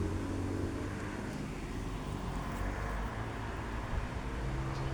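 Steady low rumble of a vehicle engine, with a faint hum and no sudden events.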